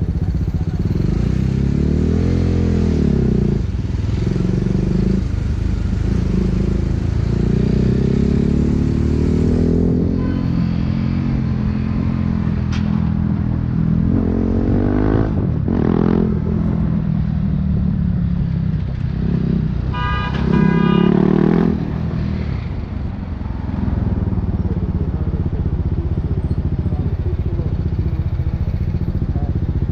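BMW G 310 R's single-cylinder engine through an Akrapovic racing exhaust, heard from the pillion seat while riding in stop-and-go traffic. The pitch rises and falls repeatedly with throttle and gear changes, with a sharp rev about fifteen seconds in. A brief high-pitched tone sounds about twenty seconds in.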